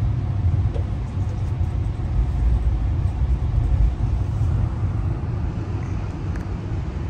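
Steady low rumble of a moving passenger train heard from inside the car: the wheels running on the rails and the car body vibrating.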